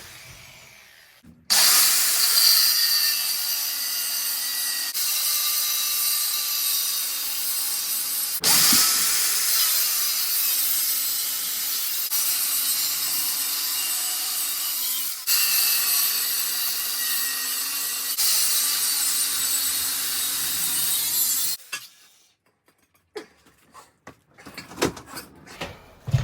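An abrasive cutting disc on a power tool cutting through steel box section: a loud, steady hissing grind that starts abruptly about a second and a half in and stops a few seconds before the end. A few light knocks follow.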